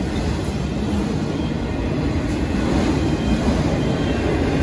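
Autorack freight cars of a BNSF auto train rolling past at close range: a steady rumble of steel wheels on the rails.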